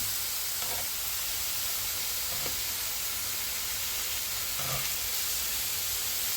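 Marinated beef short ribs sizzling steadily on a hot skillet.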